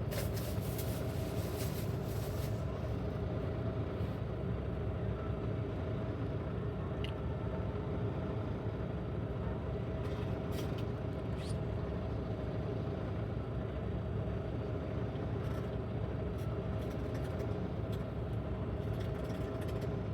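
Steady drone of a semi-truck's engine and road noise heard from inside the cab, with a few faint clicks.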